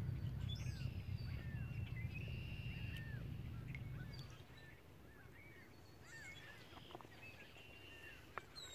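Birds calling: many short, arching chirps repeated throughout, with a few thin, steady whistles. Under them a low rumble fades out about halfway through.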